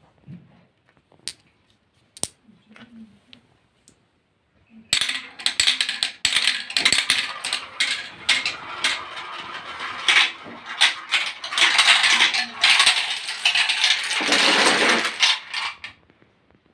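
Line of dominoes toppling. A few scattered clicks come first; about five seconds in, a dense run of clattering tiles begins, goes on for about eleven seconds, then stops abruptly near the end.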